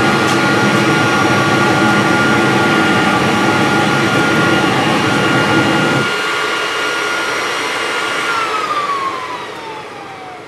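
Aluminum melting furnace's burner and blower running with a steady roar and whine; the burner roar cuts off suddenly about six seconds in as the furnace is shut off, and near the end the blower winds down in a falling whine.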